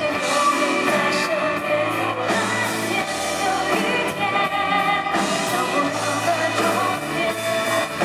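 Live band playing a rock song with singing, heard as a concert recording.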